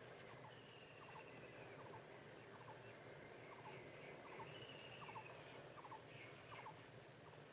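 Faint bird calls: a short double chirp repeated about every three-quarters of a second, and twice a longer falling whistle, over a low hiss.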